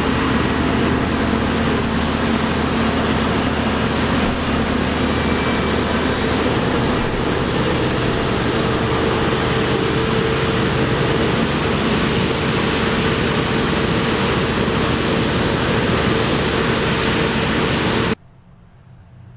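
Heavy farm machinery running steadily close by, a dense mechanical noise with a steady engine hum underneath. It cuts off suddenly near the end.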